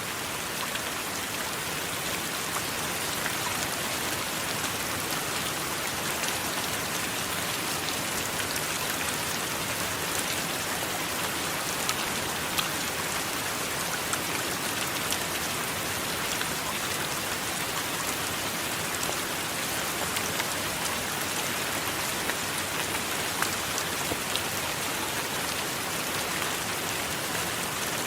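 Steady heavy rain falling, a dense even hiss with many small sharp drop ticks scattered through it.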